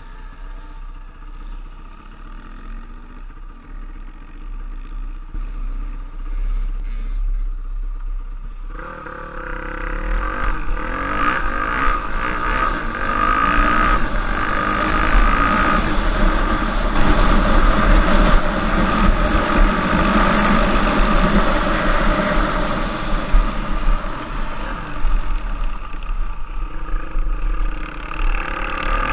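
Off-road trail bike engine running and revving up and down while riding, growing much louder about nine seconds in.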